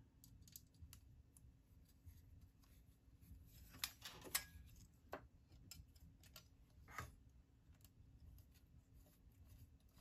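Faint clicks and taps of a hard drive and its metal mounting sled knocking together as the drive is fitted into the sled, with two louder knocks about four seconds in and another about seven seconds in.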